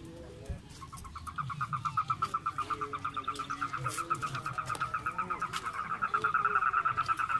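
A bird's rapid trill: a fast run of high chirps at one steady pitch that starts about a second in and grows louder, over the low chatter of a crowd.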